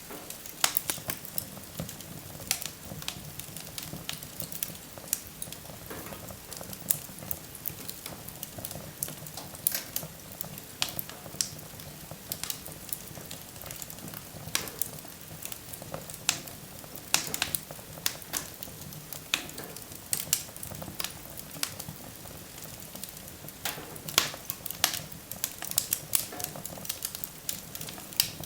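Wood fire in a fireplace crackling and popping: sharp irregular snaps, some louder than others, over a low steady hiss of burning.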